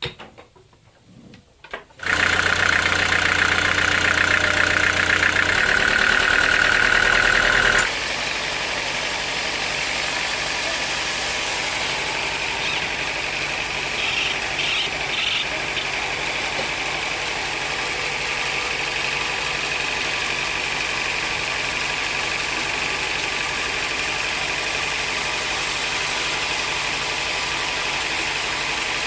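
Sawmill machinery starting up and running steadily: about two seconds in, a loud engine-like drone with a high whine comes in, then at around eight seconds it drops to a slightly quieter, steady running with a thinner high whine.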